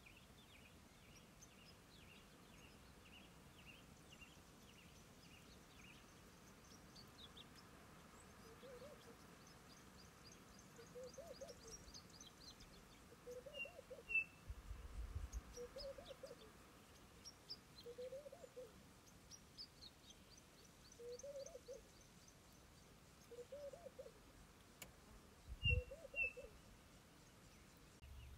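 Wild birds calling in the bush. A quick run of short high notes comes first, then a low call that rises and falls repeats about every second and a half, with high twittering above it. A low knock comes near the end.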